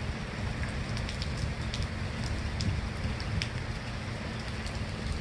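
Steady rain falling during a torrential downpour, an even hiss with scattered sharp drop ticks.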